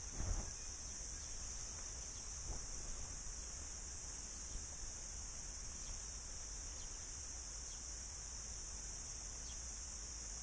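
Cicadas singing in a steady, unbroken high-pitched chorus, with a low rumble of wind on the microphone underneath and a brief bump about a third of a second in.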